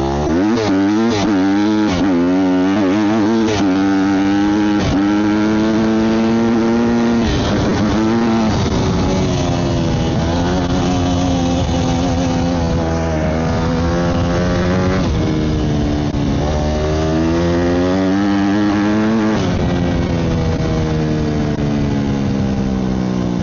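Honda CRF150R dirt bike's four-stroke single-cylinder engine being ridden hard, its pitch rising and falling with throttle and gear changes. Quick on-off throttle blips in the first few seconds, then longer pulls that climb and drop.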